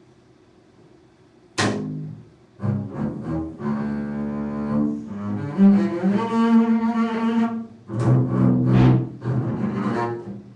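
Solo bowed string instrument playing a contemporary piece. After about a second and a half of quiet comes a sharp accented stroke, then a run of sustained bowed notes that shift in pitch, then a second forceful attack near the end, and the playing stops.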